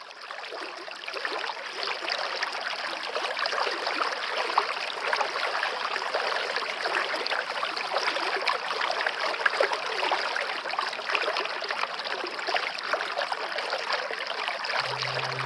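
Stream water flowing in a steady, even rush that fades in over the first second or two. Near the end a low held note comes in.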